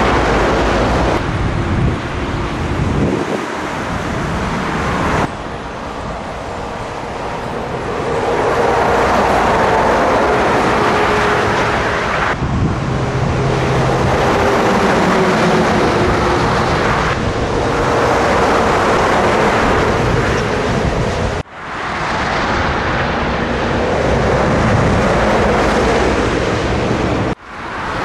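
Scania truck on the move: its engine runs steadily over tyre and road noise, the engine note drifting slowly in pitch. Twice, about 21 and 27 seconds in, the sound drops out briefly and comes back.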